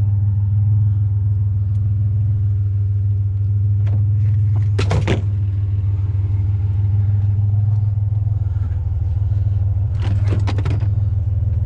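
A vehicle engine idling steadily with a low hum, most likely the scrapper's pickup truck left running at the curb. Two brief clattering knocks of items being handled break in, about five seconds in and again near the end.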